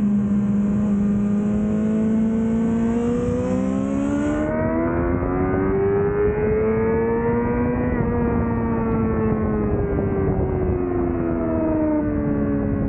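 Yamaha YZF-R6 (2005) inline-four engine with an aftermarket Laser exhaust, pulling hard under load on track. Its note holds steady, climbs for several seconds, then falls away. A high hiss stops about four seconds in.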